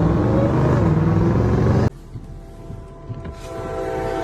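Loud vehicle engine and road rumble that cuts off abruptly about two seconds in. It gives way to a quieter scene with a steady, tone-like drone that slowly grows louder.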